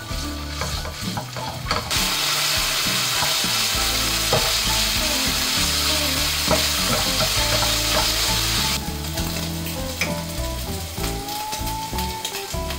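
Shredded chicken frying in hot oil in a pan, sizzling, while a slotted spatula stirs it with light scrapes and taps against the pan. The sizzle is loudest from about two seconds in and drops back suddenly at about nine seconds.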